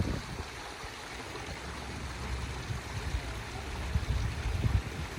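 Steady rush of flowing water, like a stream, with uneven low rumbles that swell briefly near the end.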